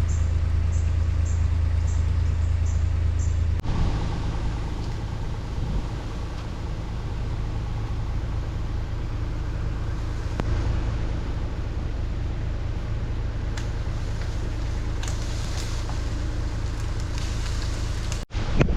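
Avant compact loader's engine running steadily, a low drone that drops in level about four seconds in and keeps going.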